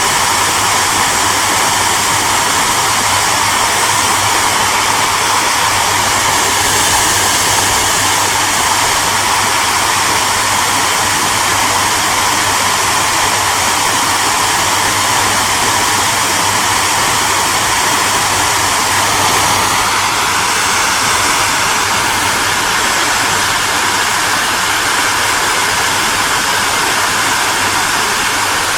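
Hair dryer running steadily: a constant rush of blown air with a low motor hum beneath it. A faint high tone joins in about two-thirds of the way through.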